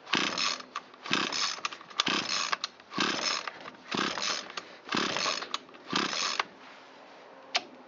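Echo SRM225 string trimmer's recoil starter pulled about seven times, roughly once a second, each pull cranking the two-stroke engine without it firing: it fails to start. A single sharp click near the end.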